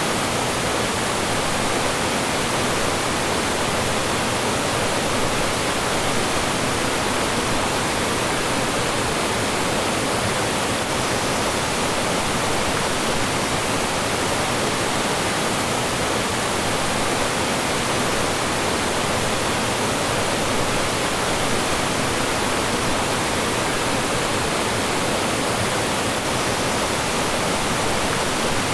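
Mountain stream rushing over rocks and small falls: a steady, loud, even wash of water.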